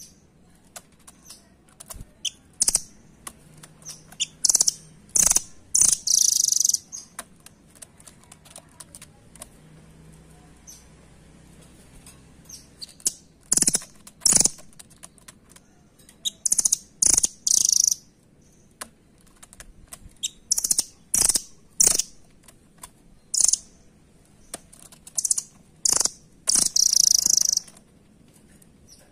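Velvet-fronted nuthatch (rambatan doraemon) calling: short, sharp, high chirps that come in bursts every few seconds, with scattered light clicks and taps between them.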